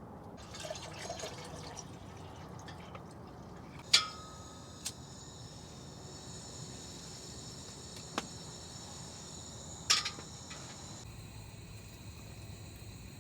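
Liquid being poured, with two sharp metallic clinks about four and ten seconds in.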